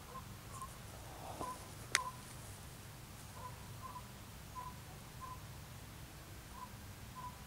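Faint short bird calls, all at one pitch and repeating irregularly, over a steady low hum. A single sharp click comes about two seconds in.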